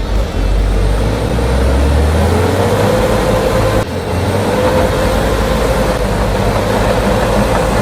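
Diesel truck engine running under heavy load, a steady drone with a deep rumble that eases about two and a half seconds in and a brief dip in level near the middle.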